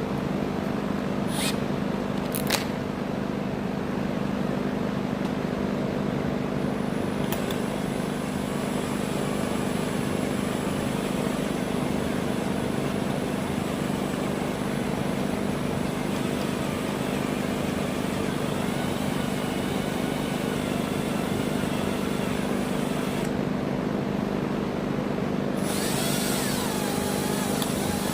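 Electric drill motor running steadily while drilling through the steel rear trunnion of an AK-pattern pistol, with a faint wavering squeal of the bit in the metal in the second half.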